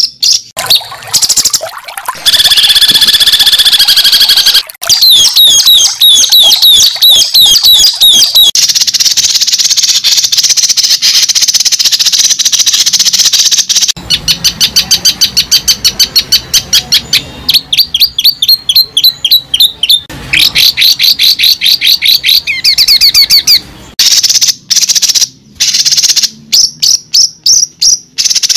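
Bird calls: fast series of high chirps and trills, changing abruptly every few seconds from one pattern to another.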